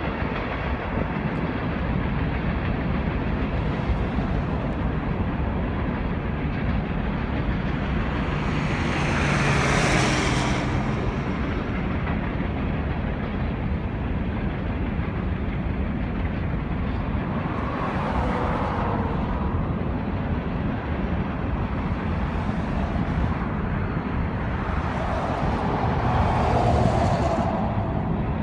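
Coal train passing, led by an EMD SD70ACE and two GE C44ACCTE diesel locomotives and followed by coal hopper cars: a steady rumble of engines and rolling wheels. Road vehicles passing close by swell up over it about ten, eighteen and twenty-six seconds in, the first the loudest.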